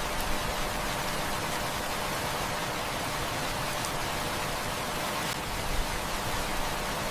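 Heavy rain falling steadily in an even hiss, with a few faint clicks.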